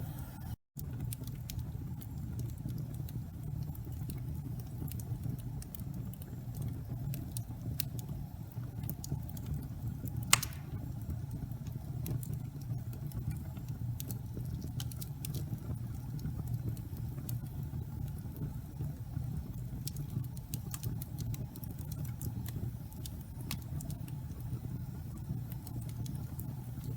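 Wood fire crackling: scattered small snaps over a steady low rumble of flames, with one sharper pop about ten seconds in. The sound cuts out for a split second just under a second in.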